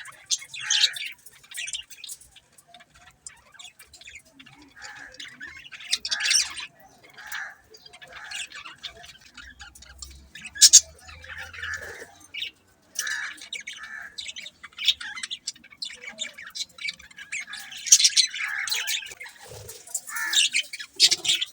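Budgerigars chirping and squawking in a steady stream of short, sharp calls, with louder bursts about eleven seconds in and again around eighteen seconds.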